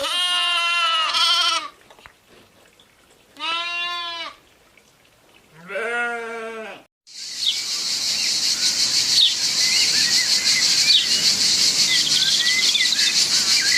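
A goat bleats three times, each a quavering call of about a second with pauses between. From about halfway a steady high-pitched hiss, dotted with short chirps, takes over.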